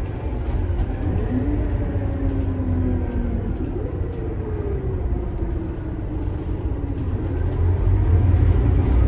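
Scania K280IB bus under way: deep rumble of its five-cylinder Scania DC9 diesel with a whine from the driveline that slides down in pitch, then the sound grows louder near the end as it pulls harder.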